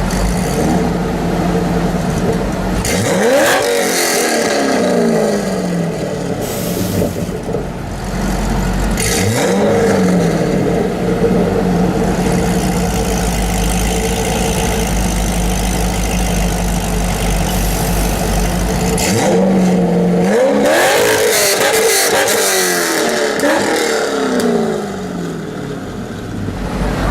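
Corvette V8 engine idling and being revved hard. The pitch sweeps up and falls back to idle about three seconds in and again about nine seconds in, then comes a quick series of revs around twenty seconds in.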